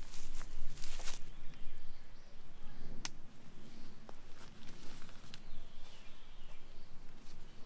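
Nylon tent rainfly rustling as its corner hook is snapped into a plastic mounting clip, with one sharp click about three seconds in and a few fainter clicks after.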